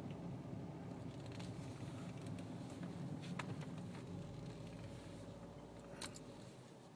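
Low engine and road rumble inside a car's cabin, dying away as the car rolls slowly to a stop, with a few faint clicks.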